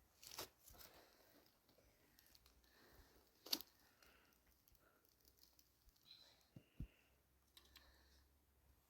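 Faint scraping and rustling of soft soil being worked for planting, with a sharp click about three and a half seconds in and a smaller one near seven seconds.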